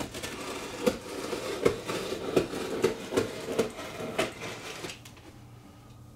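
Packaging being handled during an unboxing: rustling and crinkling with a string of sharp crackles for about five seconds, then it stops.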